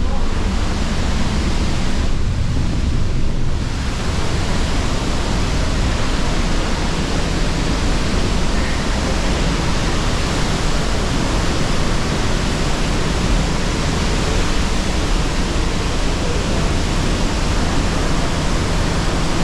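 Pailón del Diablo waterfall on the Río Verde pouring close by: a loud, steady rush of falling water, its hiss thinning briefly about two seconds in.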